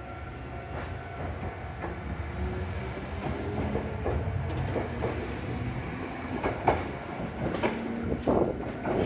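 Nankai Kada Line electric train pulling out of the station, its low running rumble growing louder as it gathers speed. Its wheels click over the rail joints, with a sharp clack about two-thirds of the way through.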